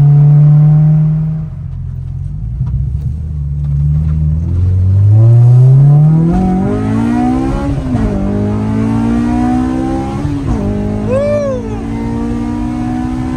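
Honda car engine pulling hard: after easing off, the engine note climbs steadily in pitch, drops sharply at an upshift, climbs again, and drops at a second upshift before settling into a steady run. A short whistle rises and falls near the end.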